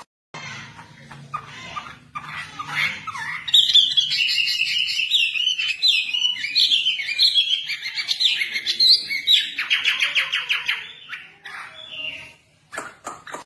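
Songbird singing, the bird Indonesian keepers call a wambi: after a few softer calls, a loud, fast warbling song of quick, high, twisting notes starts about three and a half seconds in. It ends in a rapid rattling trill and fades out near the end.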